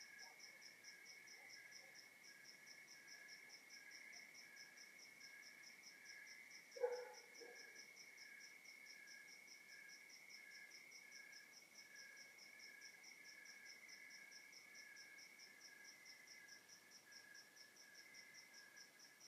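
Crickets and other night insects chirring faintly in overlapping layers: one continuous high trill, one pulsing about twice a second, and a higher one pulsing about three times a second. About seven seconds in, a single short, lower sound stands out as the loudest moment.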